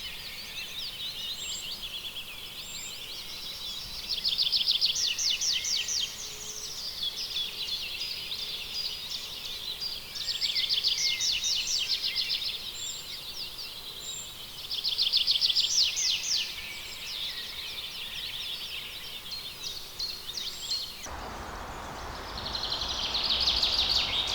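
Songbirds singing: repeated fast trills, each lasting a couple of seconds, loudest about four, ten and fifteen seconds in. About three seconds before the end, a louder rushing noise cuts in abruptly.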